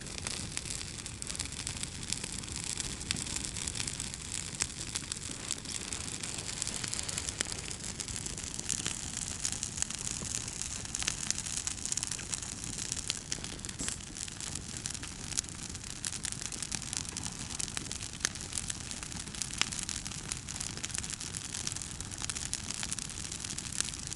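Campfire crackling with many sharp pops over the steady rushing babble of a small forest stream.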